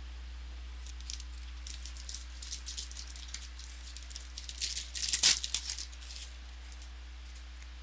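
Trading cards and their packaging being handled: light rustling and small clicks, with a louder crinkle about five seconds in.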